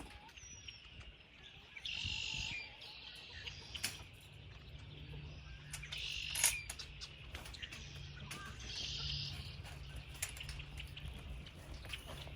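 Birds chirping in three short bursts, with scattered small clicks and knocks between them.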